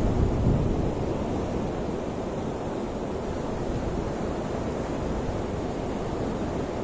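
Ocean surf washing steadily, with wind buffeting the microphone and a low rumble underneath; a little louder in the first second.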